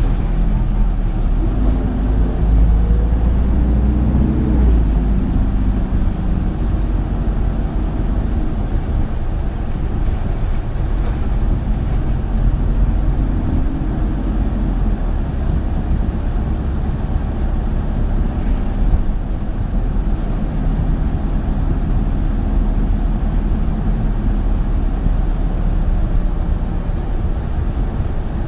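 Isuzu Erga city bus (2RG-LV290N3) heard from inside the cabin, its diesel engine rumbling as the bus drives. The engine note rises under acceleration for the first few seconds, drops about four and a half seconds in, and climbs again more gently around the middle.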